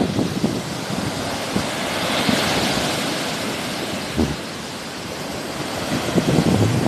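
Sea waves breaking and washing up the shore, the hiss swelling about two to three seconds in, with wind buffeting the microphone.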